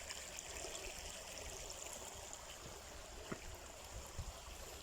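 Small creek waterfall running faintly and steadily, with only a thin flow of water.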